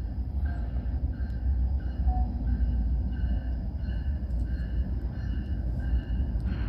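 CN M321 manifest freight train rolling past, its cars making a steady heavy rumble on the rails, with a faint high tone pulsing about twice a second.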